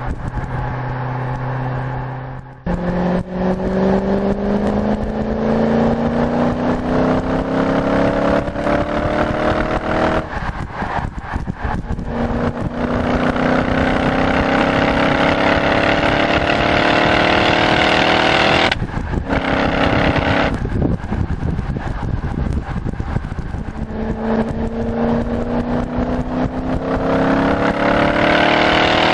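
The supercharged V8 of a BMW E38 740iL with a six-speed manual, accelerating through the gears. The engine note climbs steadily, breaks off at each gear change and climbs again, under heavy wind rush on the outside microphone.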